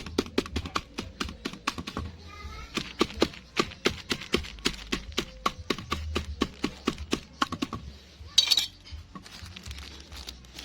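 Bird feed pellets being crushed: a quick run of sharp taps and cracks, several a second, that thins out near the end, with one short scraping rush.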